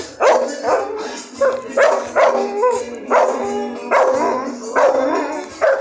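A dog barking repeatedly, about one or two barks a second.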